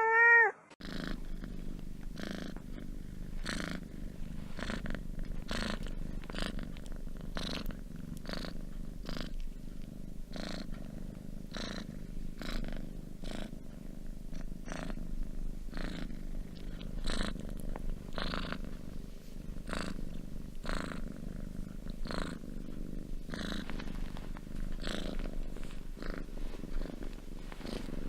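A domestic cat purring steadily, the purr pulsing with each breath in and out, about every three-quarters of a second. The tail of a meow cuts off in the first half second.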